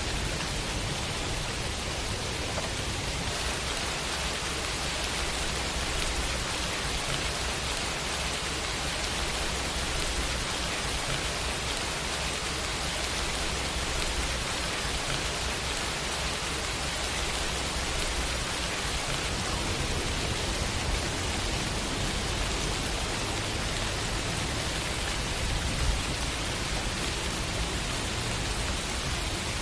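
Steady city rain falling on hard surfaces, an even hiss, with a low rumble underneath that shifts in level now and then.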